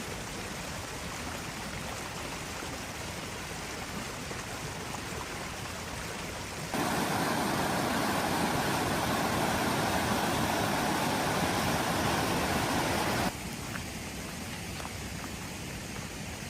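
Steady rain, changing abruptly about seven seconds in to a louder rushing sound of running water, then dropping back to the softer rain about thirteen seconds in.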